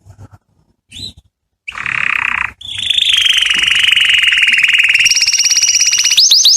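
Domestic canary singing: a few short notes, a harsh buzzy note, then a long rapid trill that steps up in pitch twice and ends in a run of falling whistled sweeps.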